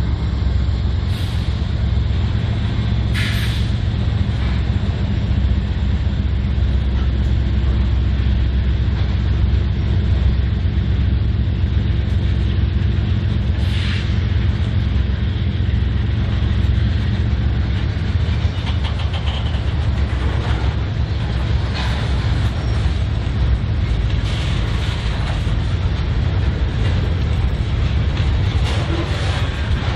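A train passing: diesel locomotive engines running steadily while rail cars roll by, with a few brief, sharp high squeaks or hisses over the top.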